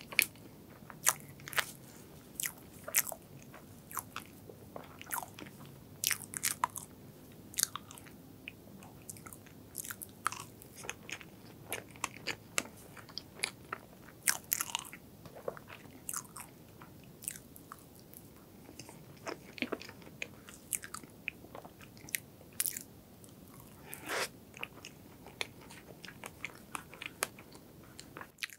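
Close-miked chewing of soft strawberry crepe cake with cream: irregular wet mouth clicks and smacks, about one to three a second. A fork picks and scrapes at the cake on the board.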